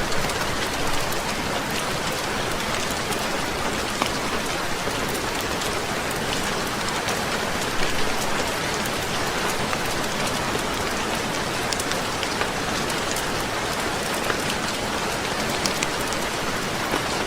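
Steady rain on a roof mixed with a crackling fire: a dense, even hiss dotted with many small sharp pops and clicks.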